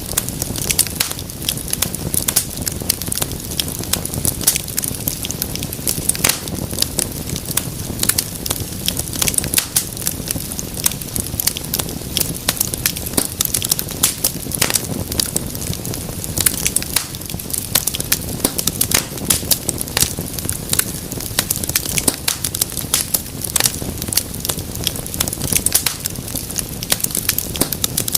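Wood fire burning in a fireplace, crackling and popping with many sharp, irregular snaps over a low, steady rumble of flame.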